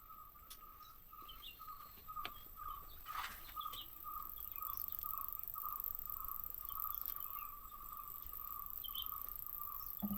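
Faint outdoor ambience: a steady chorus of calling animals pulsing evenly at one mid pitch, with a few faint bird chirps above it.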